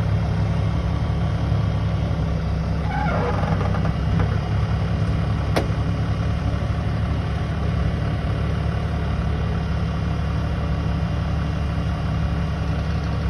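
An engine idling steadily. About three seconds in there is a brief falling squeal, and a sharp click comes about five and a half seconds in.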